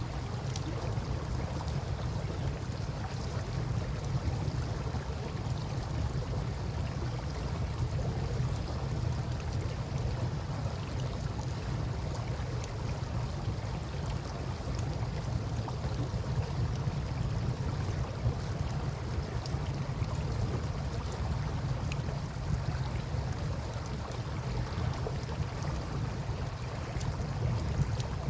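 Campfire crackling with a few faint pops beside steadily flowing river water, over a constant low rumble.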